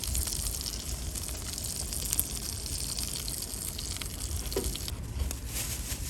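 Food sizzling on a grill over a wood fire: a steady hiss with scattered faint crackles.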